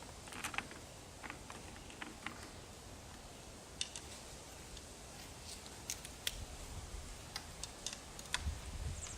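Scattered light clicks and taps of hand tools and small metal parts being handled while taking apart an outboard motor, with a low rumble near the end.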